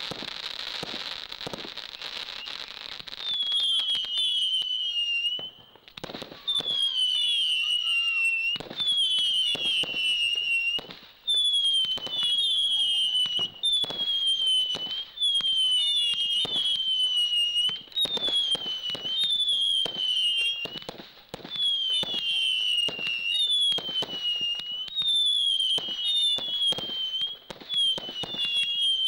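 Fireworks going off in a rapid volley. For the first few seconds there is a hissing crackle. After that come whistling shots, about one a second, each whistle falling in pitch, mixed with sharp bangs.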